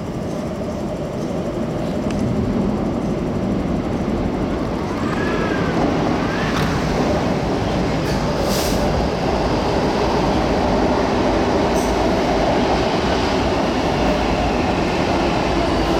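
MTR K-Train (Hyundai Rotem electric multiple unit) running at the platform. Its wheel and running noise builds over the first few seconds and then holds steady, with a brief wheel squeal about five seconds in and a few sharp clicks after it.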